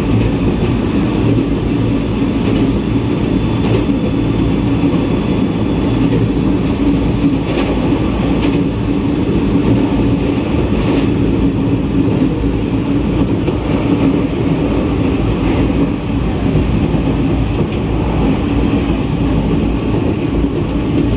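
JR East E127 series electric multiple unit running steadily, heard from inside the train: a continuous low rumble of wheels on rail with a hum, and a few faint clicks from the track.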